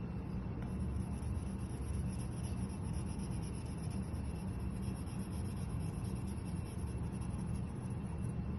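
Colored pencil scribbling on paper, over a steady low rumble.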